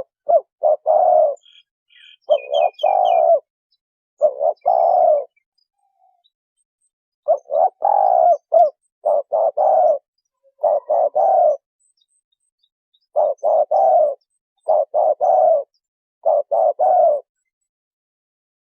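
Spotted dove cooing: a run of short, repeated phrases of low coos with brief pauses between them. Another small bird chirps faintly and briefly about two seconds in.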